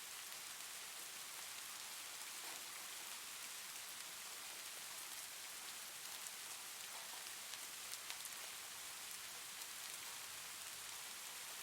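Steady soft rain: an even hiss with a few faint drop ticks scattered through it.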